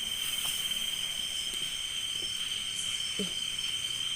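Night insect chorus: crickets keep up one steady high-pitched trill, with other insects droning higher still.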